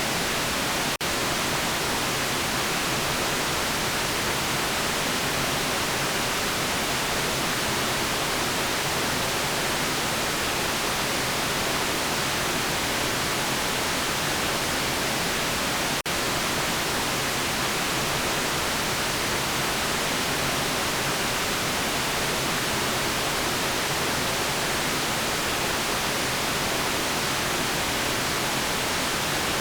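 Continuous white noise: an even, steady hiss with the most energy in the high end, broken only by two split-second dips, about a second in and halfway through.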